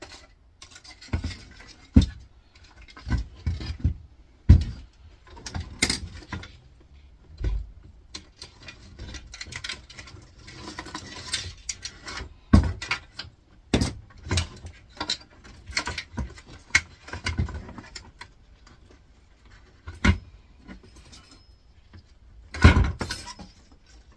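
Irregular knocks, clinks and scrapes of small metal and plastic scrap parts from a dismantled air fryer being handled and set down while being sorted, with a longer stretch of scraping about ten seconds in.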